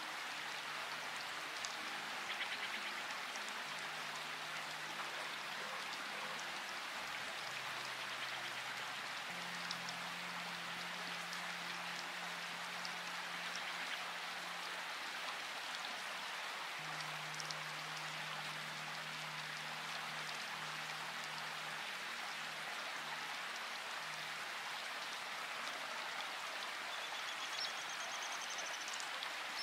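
Steady rain falling, with scattered single drops standing out. Faint low held tones shift slowly underneath, and a short high trill comes near the end.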